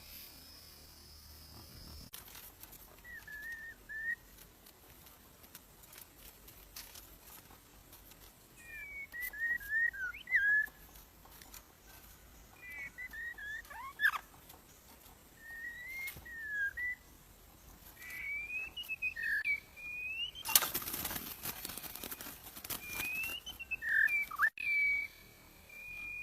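White-rumped shama (murai batu) giving short, scattered whistled song phrases a few seconds apart, with a brief loud rustling burst about three quarters of the way through.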